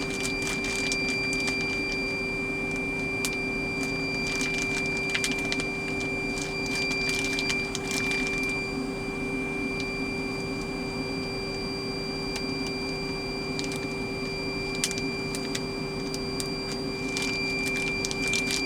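Plastic zip-top freezer bags being handled and pressed to squeeze the air out, crinkling in short scattered bursts, over a steady electrical hum with a thin high whine.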